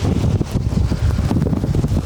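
Strong thunderstorm downburst wind gusting hard over the microphone as a loud, buffeting rumble, with a few sharp ticks.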